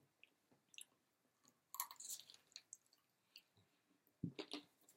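Faint chewing and wet mouth smacks of someone eating fried chicken wings: short scattered clicks, a cluster about two seconds in and another near the end.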